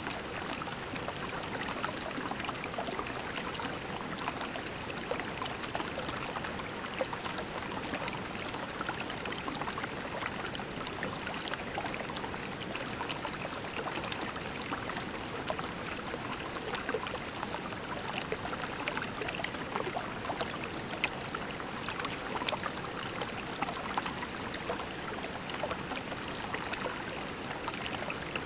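Shallow creek water flowing and trickling over pebbles: a steady babbling rush with many small splashes and gurgles.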